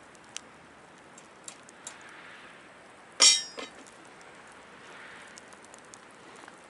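A sharp metallic clink about three seconds in, with a brief ring and a smaller knock right after, as something strikes the stainless-steel Picogrill fire pit; faint crackling of the wood fire ticks on between.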